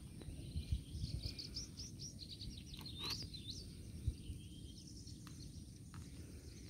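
Small birds chirping in quick rising and falling notes, thickest in the first half, over a low steady rumble of outdoor noise.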